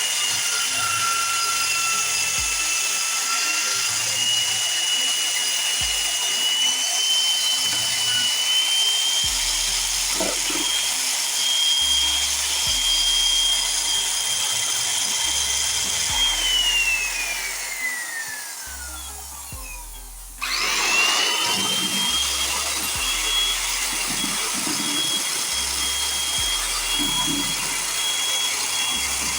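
High-speed electric power tool running with a steady high whine. About two-thirds of the way through it is switched off and winds down with a falling whine, then is switched on again and spins quickly back up to speed.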